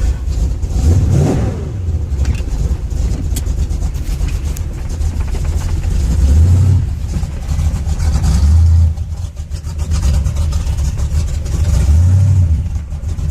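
Cold truck engine running in reverse gear through a 3000 rpm stall torque converter, idling with the revs swelling up and back down about four times. The engine is cold-started without choke and is still cold.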